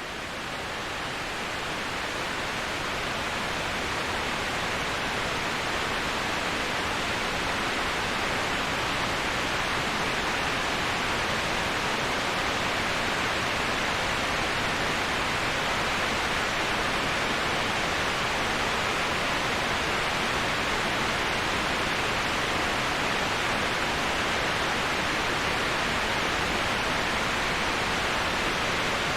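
Waterfall white noise: a steady, even rushing of falling water with no distinct splashes. It fades in from silence over the first few seconds, then holds unchanged.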